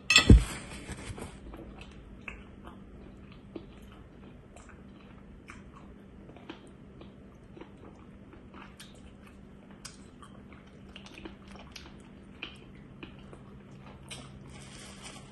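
Close-up mouth sounds of someone eating smoked pork hock by hand: chewing with scattered soft clicks and smacks. About a quarter second in there is one loud thump, the loudest sound.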